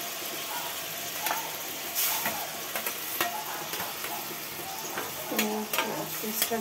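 Onion paste sizzling as it is spooned into hot ghee and oil in a metal kadai, with scattered sharp clicks of the spoon against the bowl and pan.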